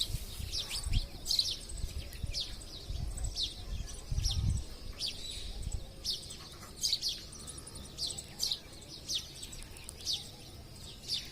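Wild parrots calling: a series of short, shrill screeches, about one or two a second, with a low rumble under them in the first half.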